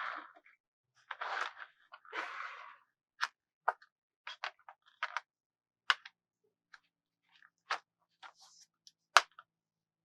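Hands handling a plastic toy car and its packaging: a few short crinkling rustles in the first seconds, then a run of sharp separate taps and clicks, the loudest near the end.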